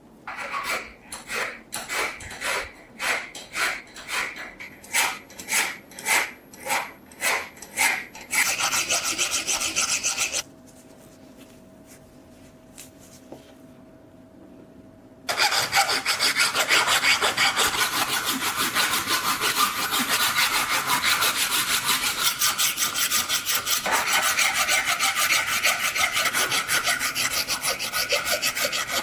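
Hand abrasive work on the rusted steel knife, rubbing and rasping. About two strokes a second at first, then a pause of about five seconds with a faint hum, and from about fifteen seconds in fast, continuous scrubbing.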